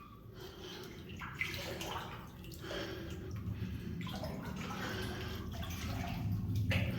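Water sloshing and splashing around a person's legs as he wades through deep water in a flooded mine tunnel, in slow surges about every second and a half.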